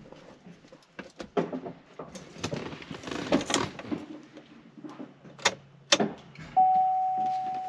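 Scattered clicks, knocks and rattles of handling, with two sharp clicks about two-thirds of the way through. A steady electronic tone starts near the end and holds.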